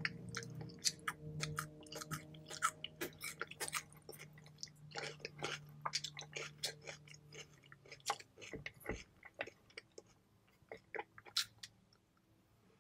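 Close-miked chewing of food: many short, irregular mouth clicks and bites that thin out and stop near the end.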